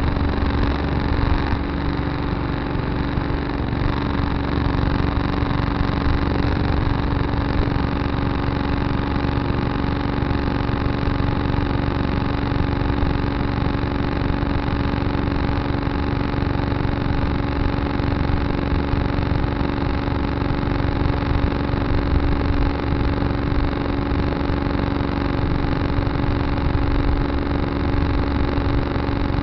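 Tractor engine running steadily at an even speed, with a constant drone and no change in pitch.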